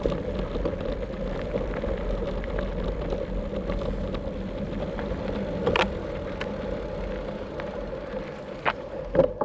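A vehicle on the move: a steady hum over a low rumble, with a few sharp knocks, the loudest about six seconds in and another near the end.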